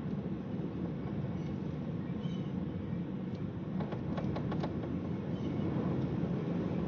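Strong wind rumbling steadily against the microphone, with a quick run of several small clicks or taps about four seconds in.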